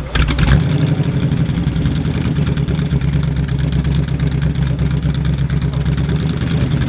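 1970 AMC AMX's V8 engine running steadily after sitting unstarted for eleven years, a little louder for the first half second before settling.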